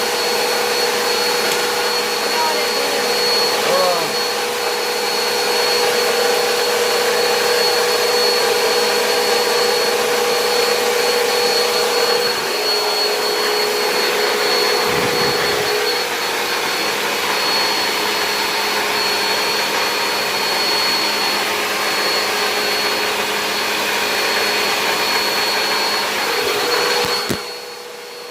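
Electric motor and fan running with a steady whirring whine, its loudness briefly dropping about a second before the end and then coming back.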